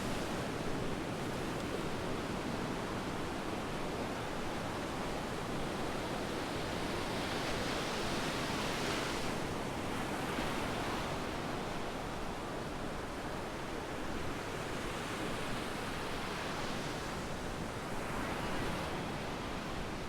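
Sea waves breaking and washing up the beach: a continuous rush of surf that swells several times as waves come in, with low buffeting of wind on the microphone.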